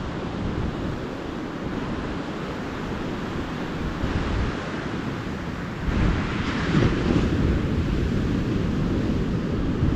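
Calm ocean surf: small waves washing onto the beach with a steady hiss, one wave breaking and rushing in louder about six seconds in. A low rumble of wind on the microphone runs underneath.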